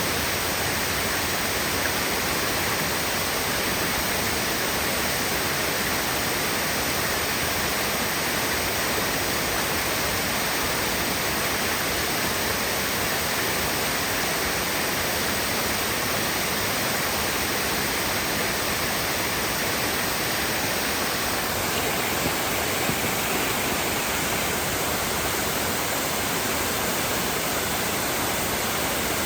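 Waterfall: a steady rush of falling water, shifting slightly in tone about two-thirds of the way through.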